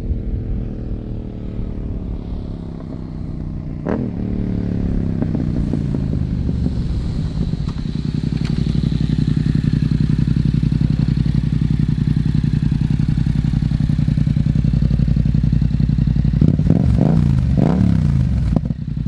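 2019 Yamaha MT-07's parallel-twin engine through a full Akrapovic exhaust with the baffle removed. The engine note falls in pitch over the first few seconds, then settles into a steady low run, and the throttle is blipped twice in quick revs near the end.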